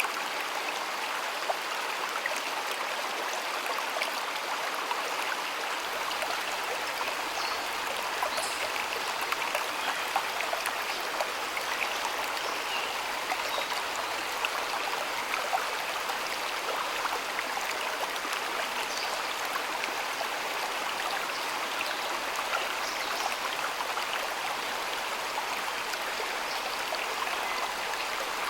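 Water of a stream flowing and babbling over stones, a steady rushing with small splashes and drips scattered through it.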